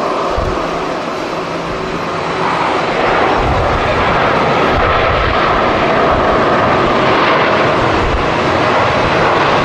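Jet airliner engines roaring at close range, growing louder about three seconds in and then holding steady. Gusts of strong wind buffet the microphone underneath.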